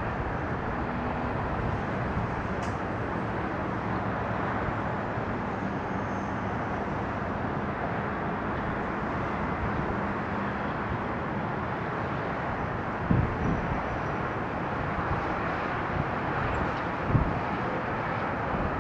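Steady outdoor background rumble and hiss beside an airfield, with a faint low hum. Two short dull thumps come about 13 and 17 seconds in.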